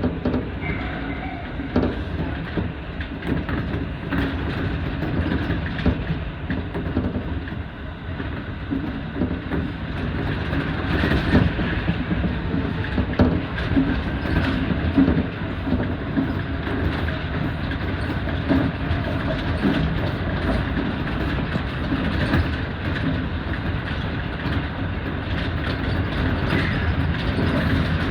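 Electric passenger train running along the line, heard from inside the front car: a steady rumble of wheels on rail, with irregular clicks as the wheels cross rail joints, slightly louder in the second half.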